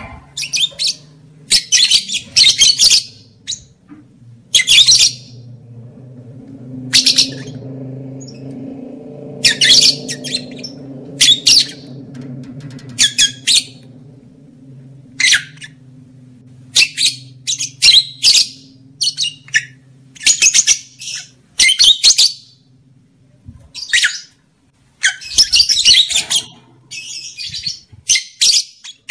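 Lovebirds giving loud, harsh chattering squawks in short bursts, irregularly every second or two, with a faint low hum beneath them for a while in the middle.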